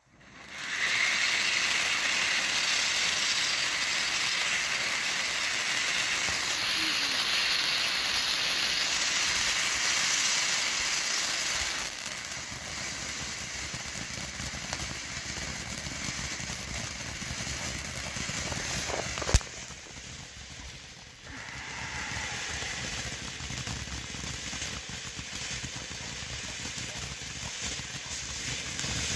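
Phantom Komodo 3000 fountain firework burning with a steady, loud hissing spray. The noise drops a little about 12 seconds in as the effect changes. About two-thirds of the way through comes a single sharp crack, then a brief lull, before the spray picks up again.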